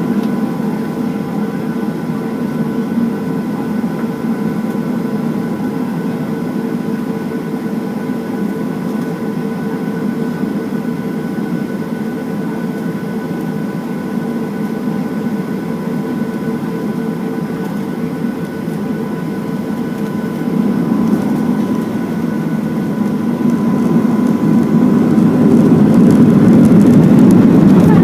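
Boeing 737-700's CFM56-7B jet engines heard from inside the cabin: a steady whine over a low rumble. About three quarters of the way through they grow steadily louder as thrust comes up for the takeoff roll.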